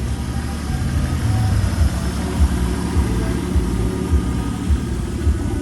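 Turbocharged Mercedes-Benz 300CE's M103 straight-six engine idling, with an uneven low pulse.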